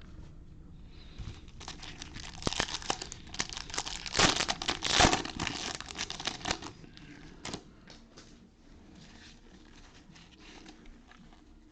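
Foil wrapper of a baseball card pack being torn open and crinkled, loudest about four to five seconds in, then fainter rustling.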